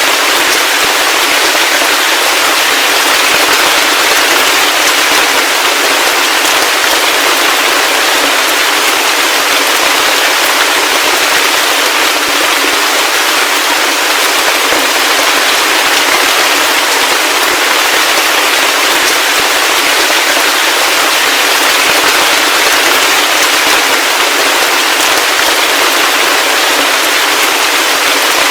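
Heavy rain falling steadily: a dense, even hiss of drops with fine crackling impacts, unchanging throughout.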